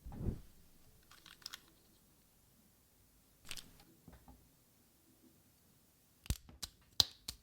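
Plastic action figure being handled and posed: a soft thump at the start, a few light clicks, then a quick run of sharp plastic clicks near the end as the joints and parts are worked.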